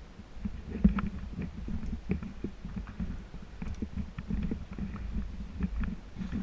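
Irregular knocks and thuds over a low rumble, a few each second.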